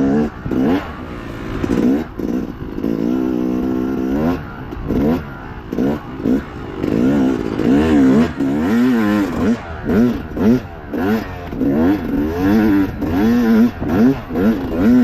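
Dirt bike engine revving hard and falling back again and again as the throttle is worked in a race. The pitch holds steady for about two seconds early on, then rises and falls about once a second.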